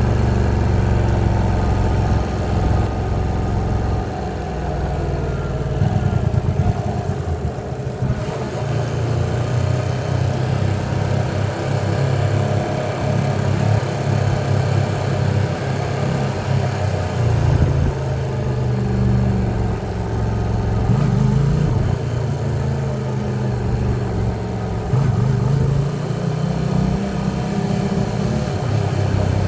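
Hyosung Aquila 125's small V-twin engine running under way, its note rising and falling every few seconds with throttle and gear changes.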